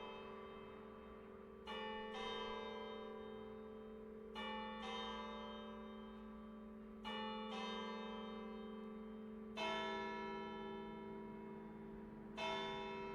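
Swinging bronze church bells cast by Friedrich Wilhelm Schilling in 1964, ringing a full peal. Strokes come in pairs about every two and a half seconds, each one ringing on and overlapping the next over a steady hum.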